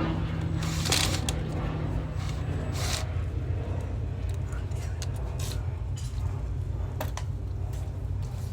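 A few sharp metallic clinks and scrapes, the loudest about one and three seconds in, over a steady low rumble.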